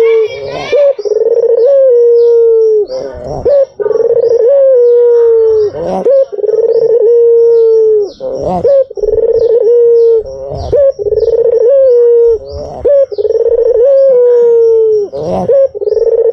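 White ringneck dove (puter putih) cooing over and over: long, low coos of about a second or more each, dipping slightly in pitch at the end, roughly one every two seconds.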